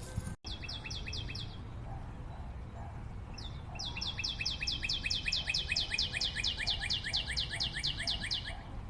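A forest bird singing a fast, rattling series of short, high, downward-slurred notes, about five a second: a short run at the start, then a longer run from about four seconds in until near the end.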